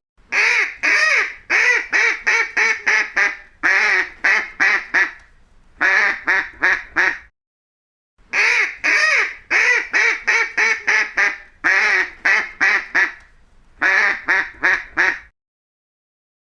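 Waterfowl calling in quick runs of short quacks, about four to seven calls per run, with brief pauses between the runs.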